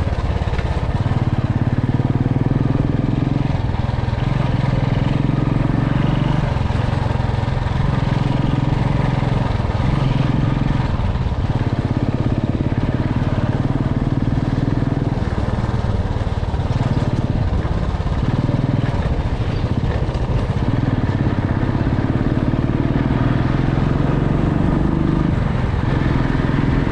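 Motorcycle engine running under way, its note stepping up and down every few seconds as the throttle changes.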